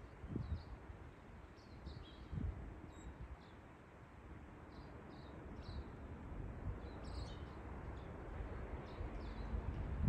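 Small birds chirping in short high calls scattered throughout, over a steady outdoor hiss, with a few low gusts of wind rumbling on the microphone.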